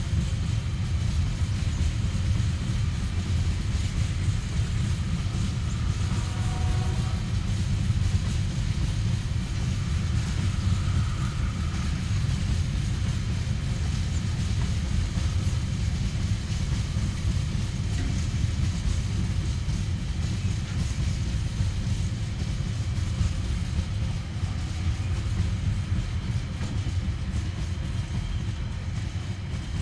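Loaded container wagons of a Tasrail freight train rolling past: a steady low rumble that eases slightly near the end as the last wagons go by.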